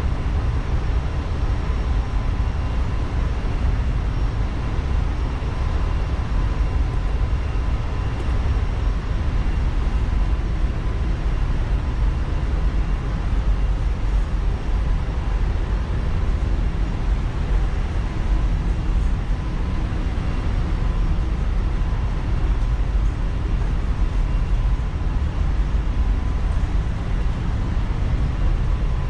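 Loud, steady engine-room machinery noise aboard a tanker ship: a deep, continuous rumble from running engines and auxiliary machinery, with a faint steady whine on top.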